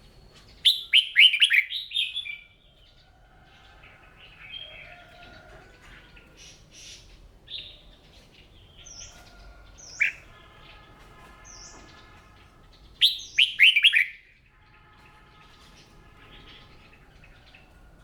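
Red-whiskered bulbul singing: a loud, quick phrase of notes about a second in and another about thirteen seconds in, with fainter chirps and calls between.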